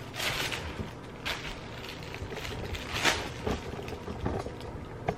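Clothing and packaging being handled: a series of brief rustles and light knocks, the sharpest about three seconds in.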